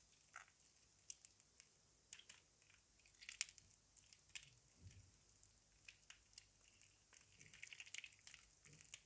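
Soaked laundry soap being squished and broken up in a basin: soft wet squelches with scattered crackling clicks, a sharper snap about three and a half seconds in and a denser run of crackles near the end.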